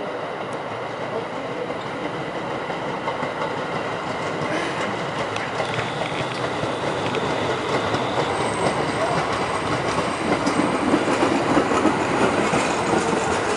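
R44 subway cars rolling into a station, growing louder as they come close and pass, with the wheels clicking over the rail joints. A thin high squeal sounds for a few seconds partway through, and a falling whine near the end as the train slows to stop.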